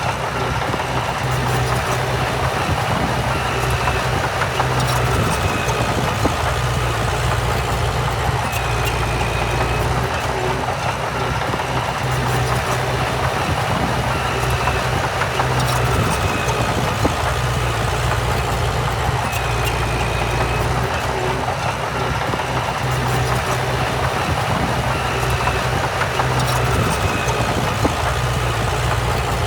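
Diesel engine of heavy earthmoving machinery running steadily as a low, even drone, with a faint short high chirp recurring every few seconds.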